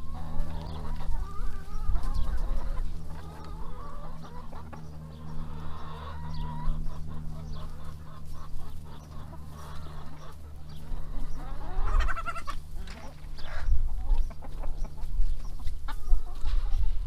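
A flock of backyard hens clucking and calling as they feed, with a short rising call about twelve seconds in, over a steady low hum.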